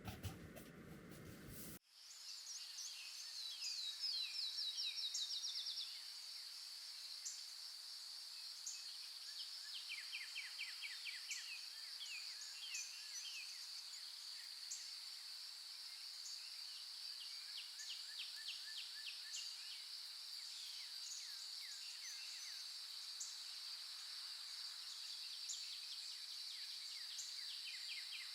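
Cooking-area noise cuts off abruptly about two seconds in. A steady, high-pitched insect chorus follows, with short rapid trills coming and going over it and scattered faint ticks.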